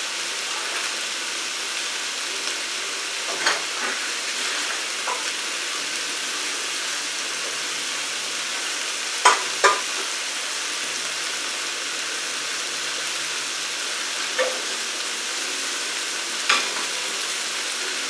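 Glass noodles sizzling steadily in a wok, with a few sharp knocks now and then. The loudest are two close together about nine seconds in.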